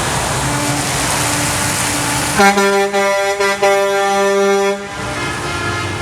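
Truck air horn sounding over the steady rumble of passing trucks, starting a little over two seconds in: a few short blasts, then one held blast of about a second that cuts off sharply.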